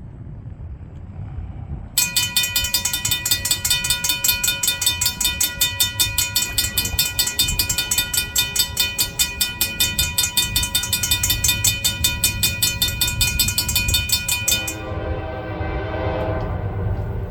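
A railroad crossing bell rings rapidly, about four strokes a second, over the low rumble of a passing train hauled by GE Dash 9 diesel locomotives, then cuts off suddenly. Near the end a locomotive horn chord sounds.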